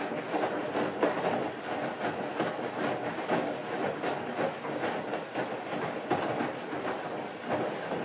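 Bosch Serie 4 washing machine running, a steady rattling machine noise with fine, irregular clatter throughout.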